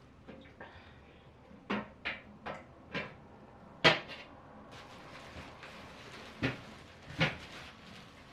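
A series of about seven sharp knocks and clunks at uneven intervals, four close together in the first half, the loudest about four seconds in, and two more near the end.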